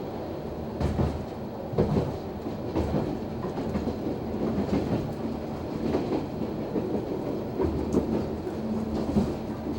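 Noto Railway NT100 diesel railcar running slowly into a station, its wheels knocking over rail joints about once a second over a steady rumble.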